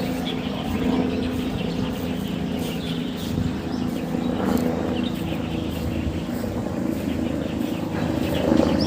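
Birds chirping in short calls over a steady low engine drone.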